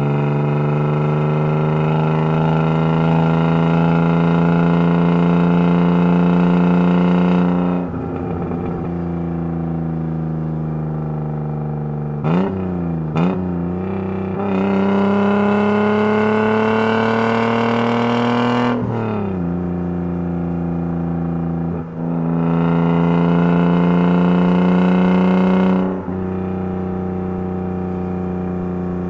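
BMW E36 engine through an RR Performance sport exhaust, pulling hard three times with its note climbing steadily for several seconds each time. Between pulls it drops back to a lower drone, and two quick throttle blips come about halfway through.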